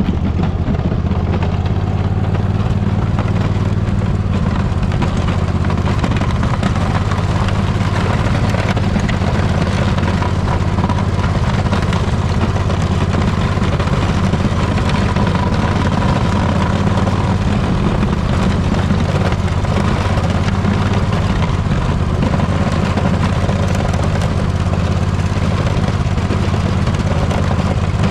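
Poulan riding mower's engine running steadily while the mower plows snow.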